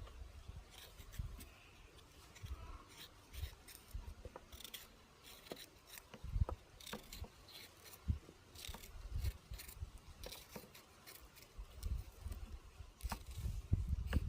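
Scattered light clicks, scrapes and soft knocks at irregular intervals from hands at work preparing food.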